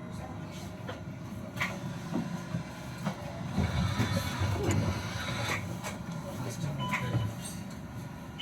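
Tram running along its rails, heard from inside the car: a steady low rumble that swells about halfway through, with scattered clicks and knocks from the wheels and track.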